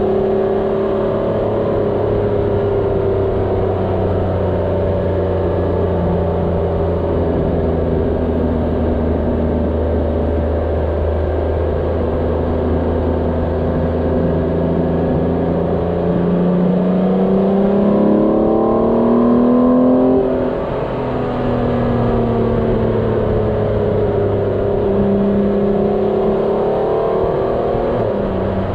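Motorcycle engine running under way, its pitch rising and falling with the throttle through the bends. About two-thirds of the way through the revs climb for a few seconds, then fall away sharply.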